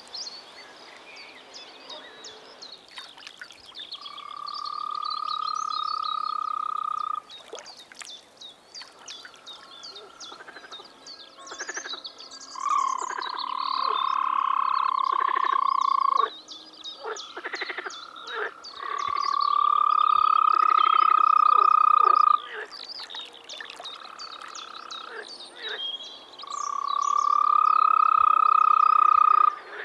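European green toads (Bufotes viridis) calling: four long, even musical trills of about three seconds each, with short clicking calls in the gaps between them.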